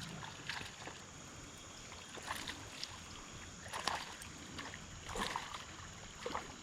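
Short splashes of water, about five in a few seconds, over the faint steady rush of a creek, as a hooked smallmouth bass is reeled in.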